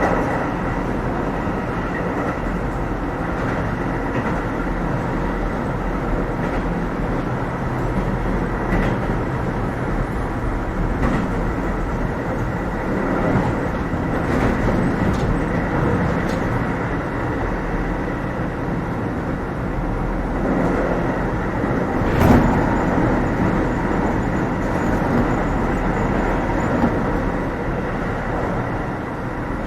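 Keio 7000 series electric train running at speed, heard inside the passenger car: a steady rumble of wheels on rail with faint steady high tones. Scattered sharp clicks and knocks pass underneath, the loudest about 22 seconds in.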